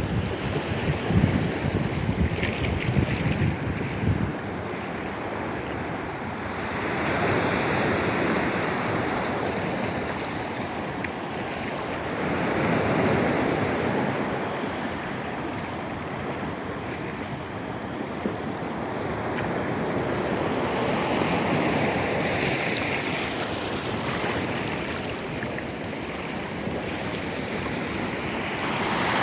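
Black Sea surf washing onto the shore, swelling and ebbing with each wave every several seconds. For the first few seconds, wind buffets the microphone.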